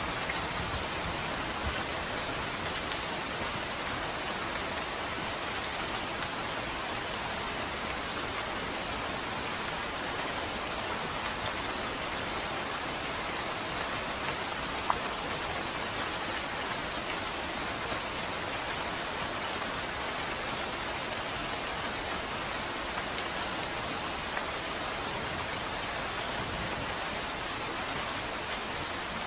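Steady rain falling, an even hiss with scattered drop ticks, one sharper tick about halfway through.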